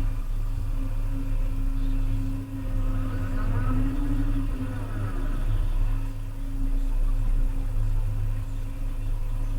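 Volvo EC300EL excavator's diesel engine running steadily under work, with a fainter whine that rises and falls a few seconds in.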